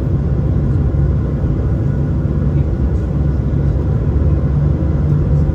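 Steady low rumble of engine and airflow noise inside the cabin of an Airbus A220 airliner with Pratt & Whitney PW1500G geared turbofans.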